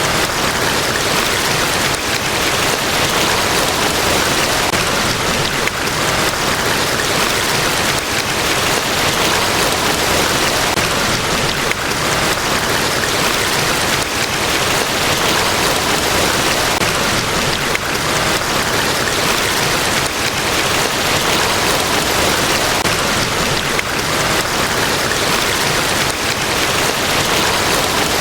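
Niagara Falls: a large waterfall's falling water making a dense, even rush that stays steady throughout.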